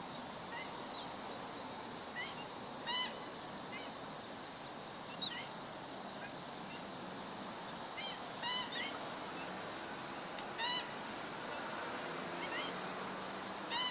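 Black-winged stilt calling: short, sharp pitched notes, some single and some in quick runs of two or three, repeated every couple of seconds over a steady hiss.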